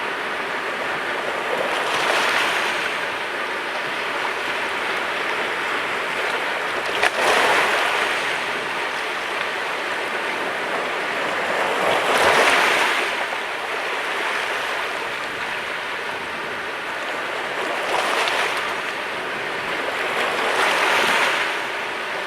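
Sea waves breaking on the shore: a steady wash of surf that swells louder about five times as waves come in, with one sharp slap of water about seven seconds in.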